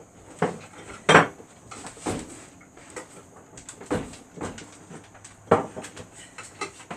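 Irregular clanks and knocks of tools and metal parts being handled during dishwasher installation, the loudest about a second in and again about five and a half seconds in.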